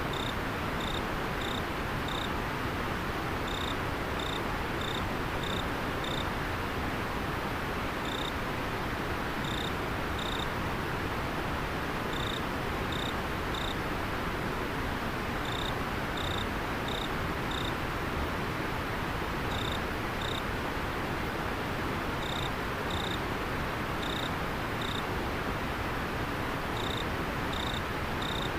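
River water flowing with a steady rush, over which a cricket sings short, high chirps, a few in quick succession, then a pause, over and over.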